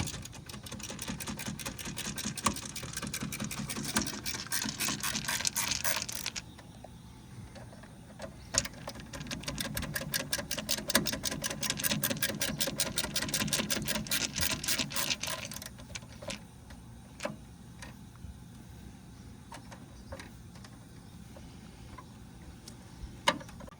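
Cordless power drill/driver running in two long bursts, each a rapid buzzing whirr lasting about six to seven seconds, with a few separate clicks after it stops.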